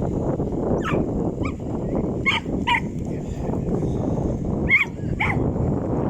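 A dog barking and yelping in short calls, six times, mostly in pairs, over a steady rumble of outdoor noise.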